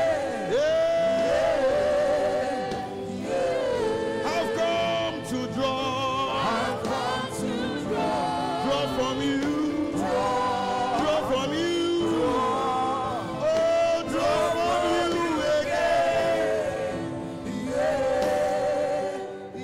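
Gospel worship singing by several voices, with long wavering held notes over steady accompaniment.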